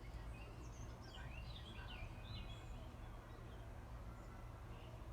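Small birds chirping and calling in quick, pitch-sliding notes, busiest in the first half and thinning out after about three seconds, over a steady low rumble.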